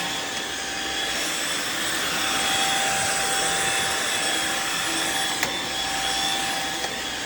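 Riccar R70 floor washer running steadily: its motor's suction whine and spinning brush rolls, with a single click about five and a half seconds in.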